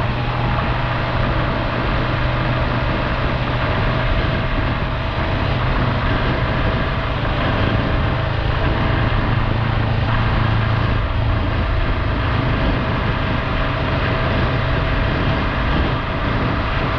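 Triumph Tiger 1200 Rally Explorer's three-cylinder engine running at a steady pace on the move, under a constant rush of wind and road noise.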